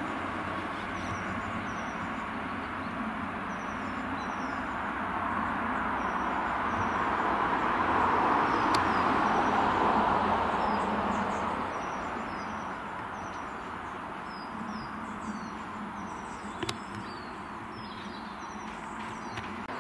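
Diesel multiple unit running away into the distance, its engine and wheel noise swelling about halfway through and then fading, with small birds chirping throughout.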